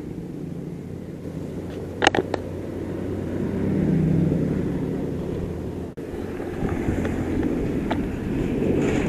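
Motorcycle engine running, swelling louder about four seconds in and easing off again, with a sharp click about two seconds in.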